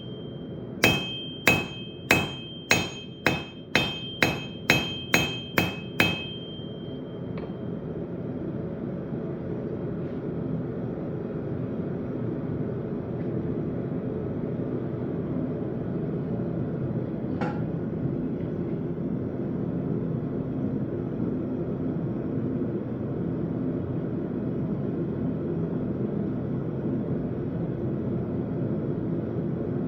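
Forging hammer striking hot steel on an anvil: about a dozen ringing blows over the first six seconds, coming faster as they go. Then the hammering stops and a steady low roar carries on, with one lone knock about halfway through.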